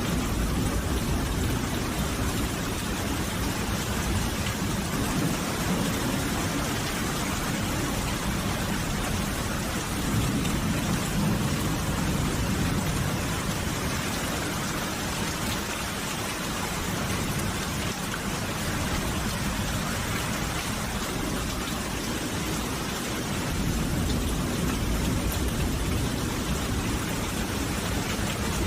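Steady rain falling, an even hiss, with a low rumble underneath that swells a few times.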